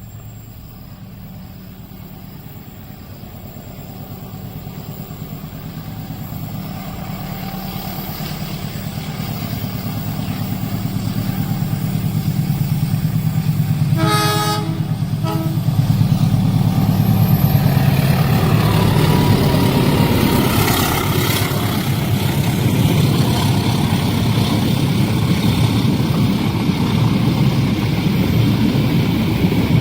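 Diesel-hauled train approaching, its engine hum growing steadily louder. The horn sounds briefly about halfway in, then the long train passes close with loud, steady rolling noise from the wheels and wagons.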